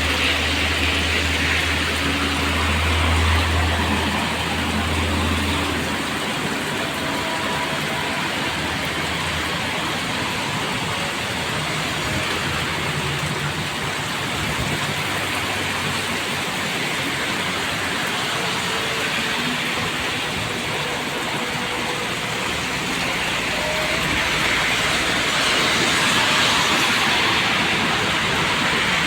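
Road traffic in the rain: a steady hiss of rain and tyres on a wet road. A heavy vehicle's low engine hum fades out about six seconds in.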